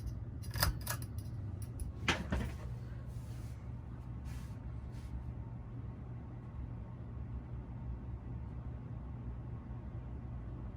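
A 42-inch Alaska ceiling fan running on high speed, a steady low hum, with a few sharp clicks in the first couple of seconds. The motor runs smoothly, which the owner calls perfectly fine.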